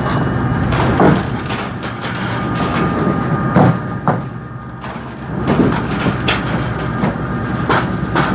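Machinery on a squid-jigging boat running with a steady hum. Several irregular knocks and clatters sound over it.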